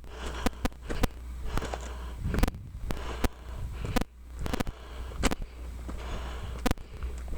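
Footsteps on a rocky desert trail: irregular sharp crunches about once a second, over a low steady rumble.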